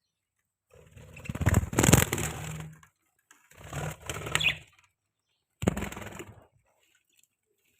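Birds calling in three separate bursts, the first the longest and loudest, with silence between them.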